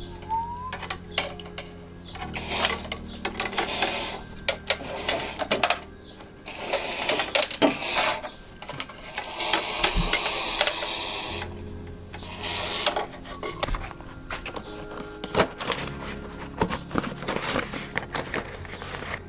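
Hand-tool work on car body metal: many clicks and knocks, with three bursts of harsh noise of one to two seconds each. Background music with held notes plays underneath.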